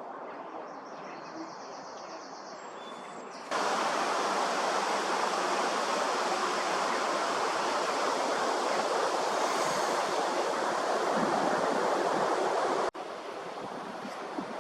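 A loud, steady rushing noise with no pitch to it, like running water or wind, starts suddenly a few seconds in and cuts off abruptly near the end. A softer outdoor hiss lies before and after it.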